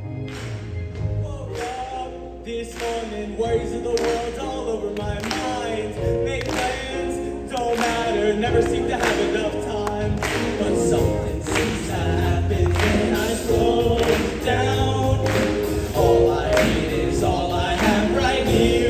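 Show choir singing in harmony over a band accompaniment, with sustained bass notes and a steady drum beat.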